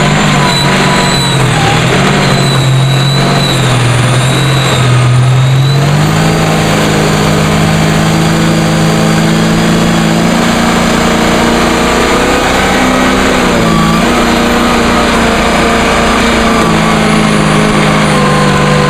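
A large engine running hard and steadily. Its note sags for a few seconds about two seconds in, climbs back about six seconds in, and dips briefly once more later, as with an engine taking and shedding load.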